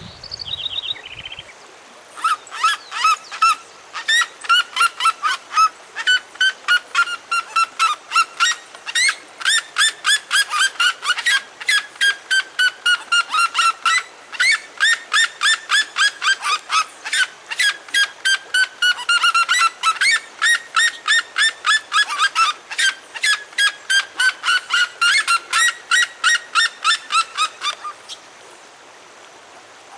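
A bird singing a long series of short, evenly spaced sweeping notes, about three a second, in phrases whose pitch slowly falls and then jumps back up.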